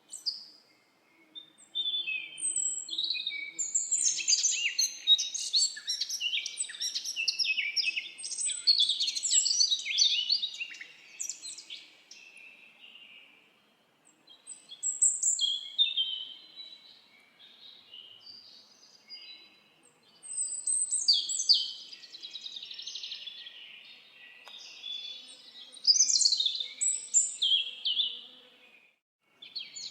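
Several songbirds singing together in a forest, a dense chorus of quick high chirps and trills in overlapping phrases, with brief lulls between bursts.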